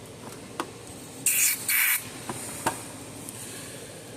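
Aerosol can of lubricant sprayed in two short hissing bursts about a second in, with a few light clicks around them.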